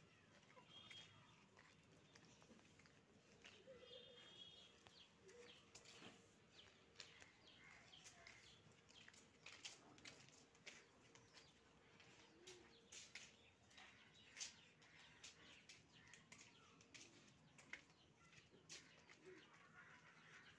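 Near silence: faint outdoor background with brief bird chirps about one and four seconds in, a few soft low coos of pigeons, and scattered faint clicks and taps.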